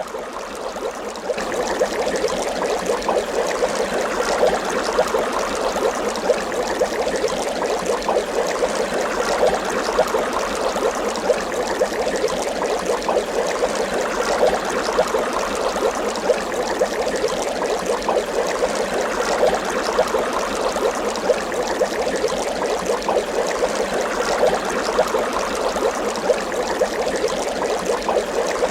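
Water bubbling continuously, a dense stream of small bubble pops and gurgles, with a slightly quieter start in the first second or so.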